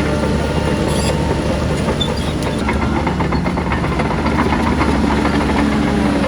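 Shantui crawler bulldozer's diesel engine running steadily, with a run of light metallic clicks and clanks in the middle.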